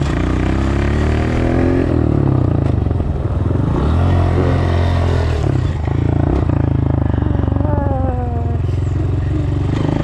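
Dirt bike engine running under throttle while being ridden. The revs climb over the first couple of seconds, drop and pick up again around three and six seconds, and fall off near eight seconds.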